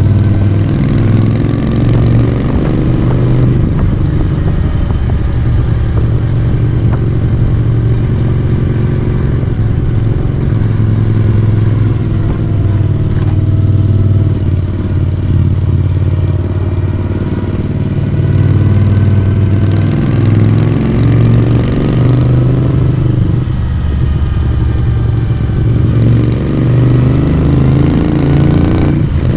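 Moto Guzzi V35's transverse V-twin engine and raw exhaust running under way. The engine speed dips and rises several times with the throttle and climbs steadily near the end.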